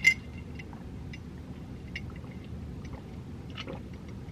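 Close-miked chewing of a mouthful of spicy chicken: one sharp smack right at the start, then quiet chewing with small wet mouth clicks.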